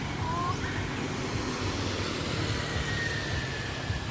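Steady low rumble of a motor vehicle running, with a faint thin high tone that drifts slowly down in pitch through the second half.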